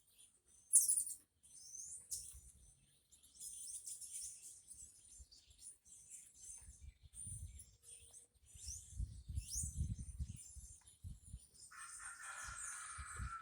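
Small birds chirping and tweeting with high, quick calls, and a rooster crowing in the background near the end. Low rumbling comes and goes in the middle.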